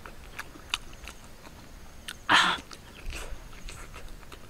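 Close-up eating sounds of a woman chewing a boiled egg: soft wet mouth clicks and lip smacks, with one louder, brief sound a little over two seconds in.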